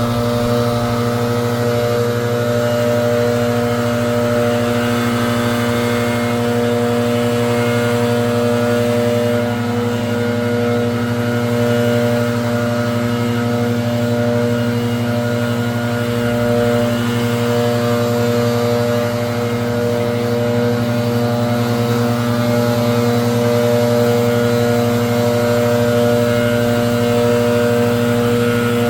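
Leaf blower running steadily at a constant high speed, blowing leaves out of a river-rock bed.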